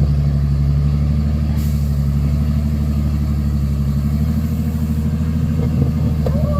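Heavy off-road truck's diesel engine running steadily, a deep, even drone that holds without revving up or down.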